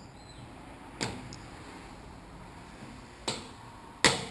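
Three sharp knocks of a hammer striking a stuck damper part in a motorcycle fork leg, about a second in, past three seconds and near the end, the last one the loudest.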